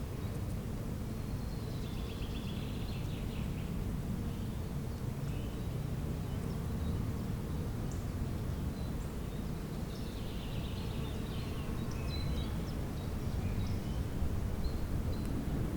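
Birds singing in two short bouts, one a couple of seconds in and another about ten seconds in, over a steady low rumble.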